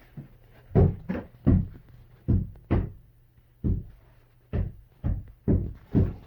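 A series of about ten sudden, uneven thumps, roughly one every half second to second, each dying away quickly.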